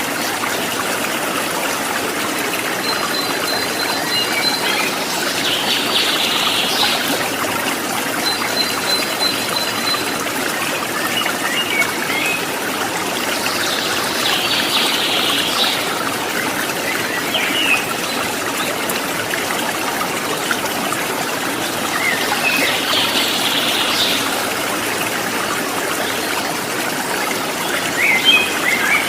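Water trickling steadily, with birds calling over it: short chirpy bursts every several seconds and, twice, a fast even trill of high notes.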